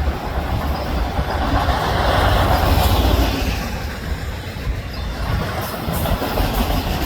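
Canadian National autorack freight train rolling past, its steel wheels rumbling and clacking on the rails, swelling a little louder about two to three seconds in.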